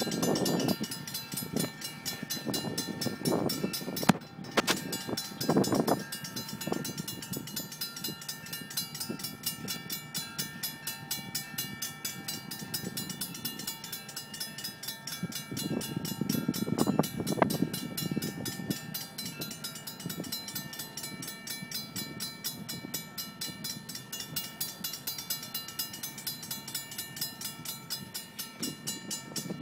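Sound of an approaching train: a fast, even rhythm of ringing pulses runs throughout, with louder low rumbling swells near the start, a few seconds in, and again past the middle. A sharp click about four seconds in.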